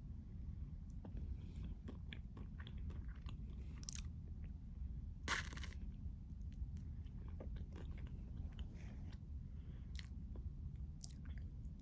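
Close-miked biting and chewing of a chocolate-coated ice cream bar: crisp, crackly crunches of the shell as it is chewed, with one loud bite about five seconds in.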